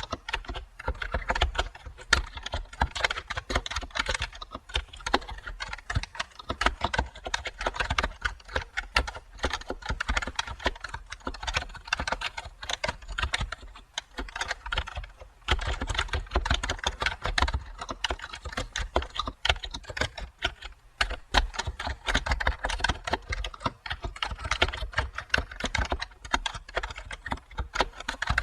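Typing on a computer keyboard: a quick, continuous run of keystroke clicks, with a brief pause about halfway through and another shorter one later.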